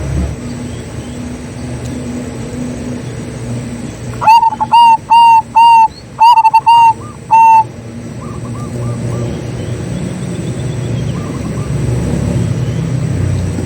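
Zebra dove cooing: about four seconds in, a loud run of about eight short, even coos in quick succession lasting some three seconds. Fainter dove calls come before and after, over a steady low background rumble.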